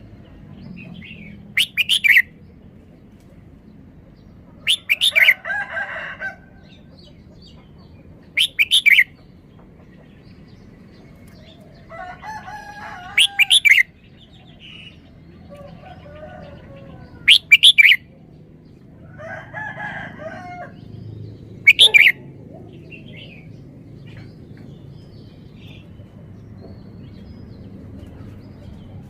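Red-whiskered bulbul singing: short, loud, sweet phrases of a few quick notes, repeated about every four seconds, six times in all. Softer, lower chattering calls come between some of the phrases.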